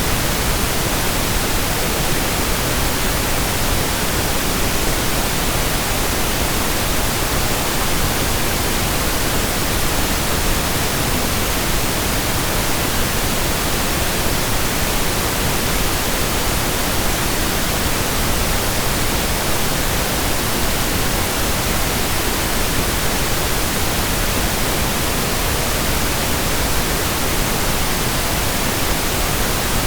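Steady pink noise: an even hiss spread across all pitches, weighted toward the low end so it sounds softer than white noise, with no changes or events.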